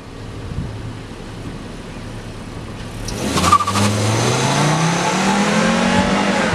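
Car engine running steadily, then accelerating from about three seconds in, its pitch climbing as it picks up speed.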